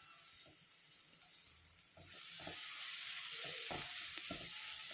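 Spice powders and onion-tomato masala sizzling in hot coconut oil in a pan, with a spatula stirring and scraping against the pan. The sizzle grows louder about two seconds in.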